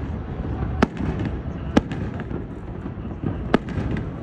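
Aerial fireworks shells bursting: three sharp bangs, the third after a longer gap, each trailed by a few smaller crackling pops, over a steady low rumble.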